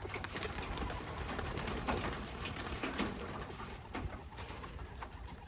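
Racing pigeons cooing, with many short clicks and flutters among them and a low rumble of wind on the microphone.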